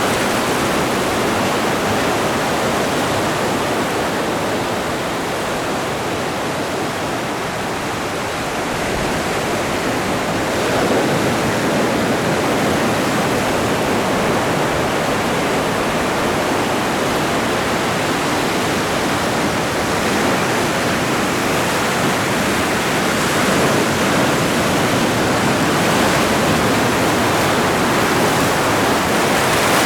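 Atlantic Ocean surf washing steadily onto the shore. There is a slight lull about a third of the way in, then a wave swells up again.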